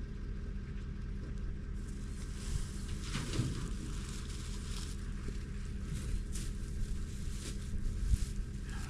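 An engine running steadily at idle, with brief rustling and knocks over it.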